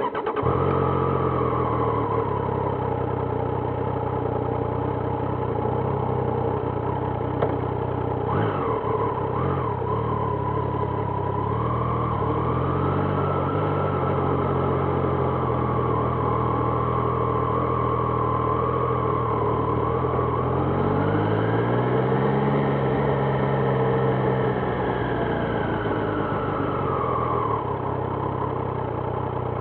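Triumph Trident 660's inline three-cylinder engine running steadily at low revs, coming in suddenly. About eight seconds in there is a quick throttle blip, and about twenty-one seconds in the pitch rises slowly, holds for a few seconds and falls back.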